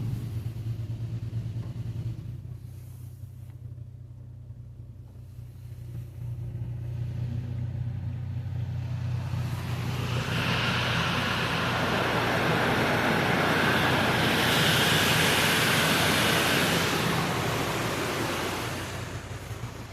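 Automatic car wash in operation: a loud rushing hiss from the wash passing over the car builds up about six seconds in, holds, and dies away near the end, over a steady low hum.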